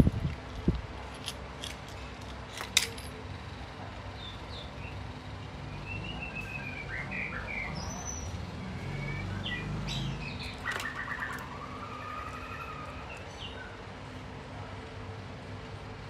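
Birds chirping in runs of short high notes, with a few sharp metallic clicks near the start and about three seconds in as small clock parts are handled with pliers.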